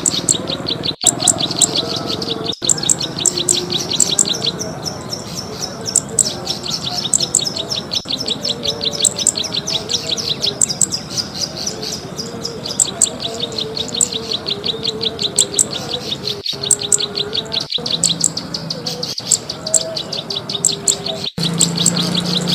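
Bird-lure recording of a cisticola repeating a rapid, high, ticking chirp, several notes a second, broken by a few very short dropouts at edit points.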